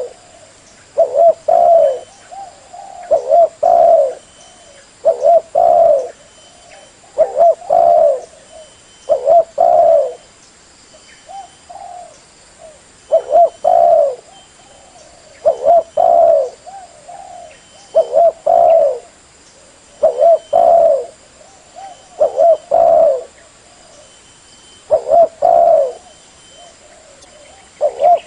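Spotted dove (terkukur) cooing: a loud phrase of a few hoarse coos repeated about every two seconds, the kind of call recording used to lure the birds.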